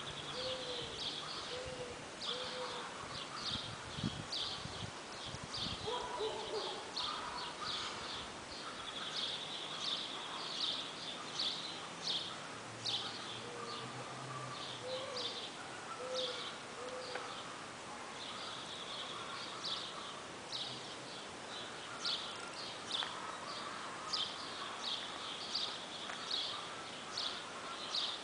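Birds singing outdoors: a dense chorus of short, high chirps and trills repeating throughout, with a few lower whistled notes mixed in. A few low thumps come in the first six seconds.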